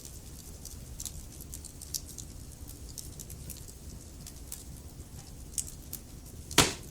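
Wood fire crackling in a fireplace: many small, irregular snaps and ticks over a low steady rumble of the flames, with one loud pop near the end.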